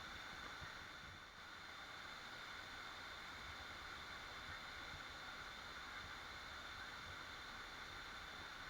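Waterfall: steady rushing of falling water, an even hiss over a low rumble.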